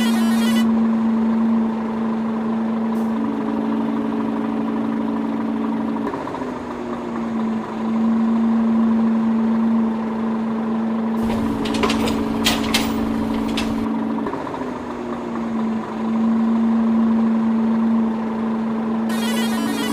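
Truck engine running at a steady idle, a low hum that shifts pitch slightly now and then, with a short burst of clicks and a low rumble about twelve seconds in.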